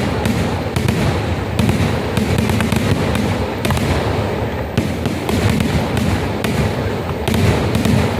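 Kerala festival fireworks (vedikkettu): a dense, continuous barrage of firecracker blasts, many bangs a second running together without a break.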